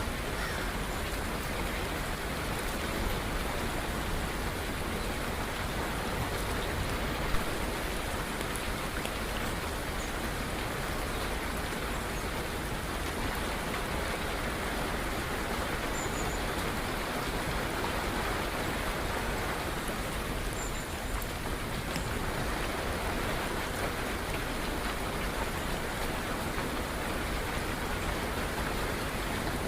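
Steady rain falling, an even hiss of drops with no let-up. A few faint, short high chirps from birds come through in the second half.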